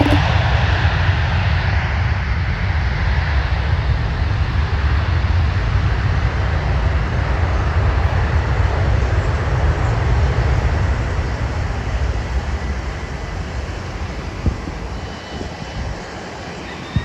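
Jet airliner's engines, a loud steady rumble that fades away over the last few seconds.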